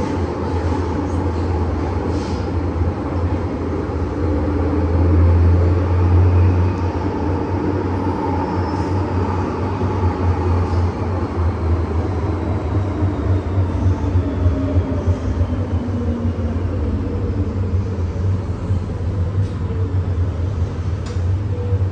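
MTR M-Train electric metro train running on the Tseung Kwan O Line, with a steady deep rumble and a faint whine that falls slowly in pitch.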